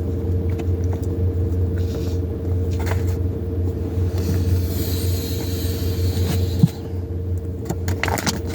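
Steady low rumble with a faint steady tone above it, like an idling vehicle heard from inside, with light rustling and one soft thump about two-thirds of the way through.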